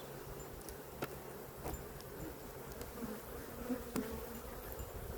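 Honeybees buzzing in a steady hum around an opened hive, stirred up while the smoker is running out of fuel. A few light clicks sound about one, two and four seconds in.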